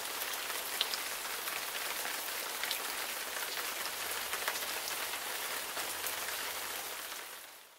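Steady rain falling, an even hiss with scattered drop ticks, fading out at the end.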